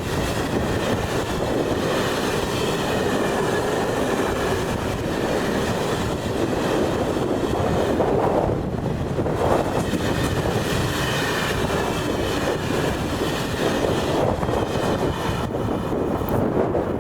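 A train passing on the track: a steady rumble of wheels on the rails, with a faint high wavering whine above it.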